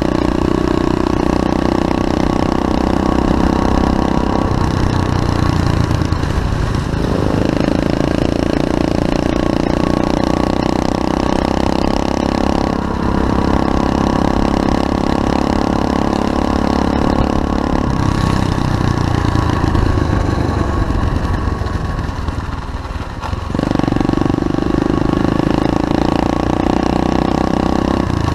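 SSR 125cc pit bike's single-cylinder four-stroke engine running at high revs under throttle. The revs drop off a few seconds in, and again for several seconds past the middle, before the engine picks back up.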